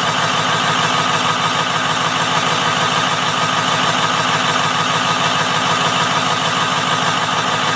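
Ford 6.0 L Power Stroke V8 turbo-diesel idling steadily after a cold start, heard at the exhaust as an even, fast pulsing.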